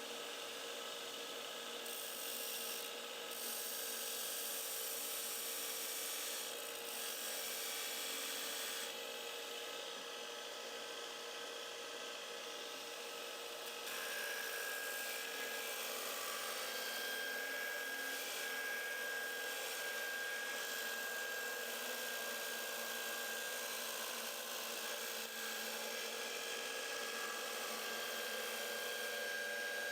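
Magna-Matic MAG-8200 water-cooled belt grinder grinding a steel lawn mower blade edge to take out a deep nick: a steady rasping hiss over the machine's running hum, with a thin steady whine coming in about halfway.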